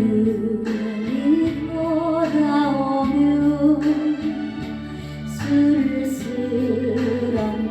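A woman singing a Korean song over a recorded instrumental backing track, long held notes with vibrato.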